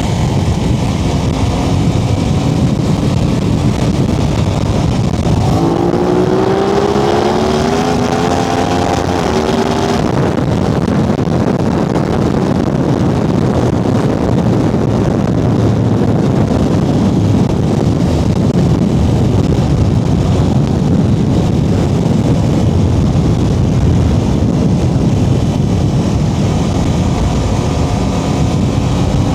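Aprilia RS660's parallel-twin engine running under way over a steady rush of wind and road noise. About six seconds in, the engine note rises steadily for several seconds as the bike accelerates, then breaks off about ten seconds in; it starts rising again near the end.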